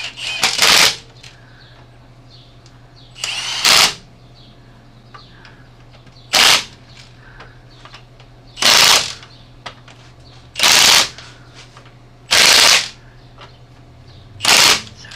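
Impact wrench running lug nuts onto a wheel in seven short hammering bursts, one every second or two; the nuts are to be torque-checked with a breaker bar afterwards.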